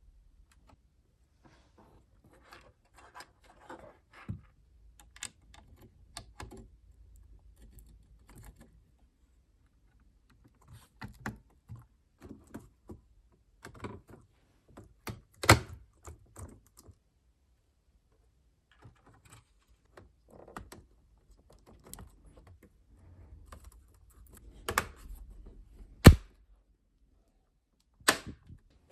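Plastic laptop parts being handled: irregular clicks and taps in clusters with gaps between them, and a few sharper knocks, the loudest about two thirds of the way through and near the end.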